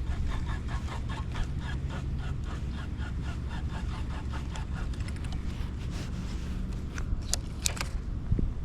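Spinning reel being cranked on a lure retrieve, an even ticking about four times a second that fades out partway through, then a few sharp clicks near the end. Wind rumbles on the microphone throughout.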